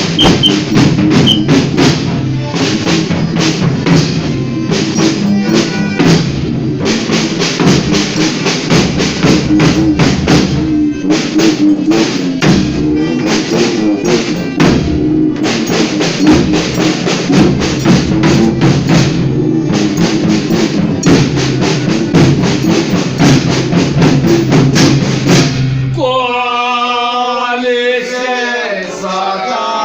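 A folia band playing an instrumental passage, with drum and percussion strokes beating steadily over a sustained low accompaniment. About 26 seconds in, the percussion and low accompaniment stop and a sung verse begins.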